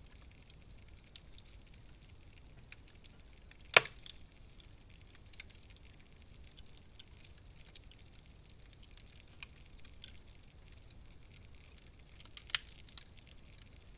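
Wood fire crackling in a fireplace: a low steady hiss with scattered small crackles, and sharp pops about a third of the way in and again near the end.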